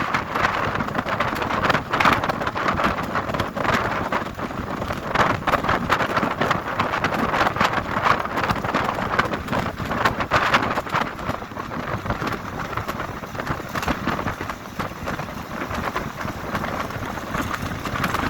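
Heavy monsoon rain falling: a steady hiss crossed by dense patter of drops.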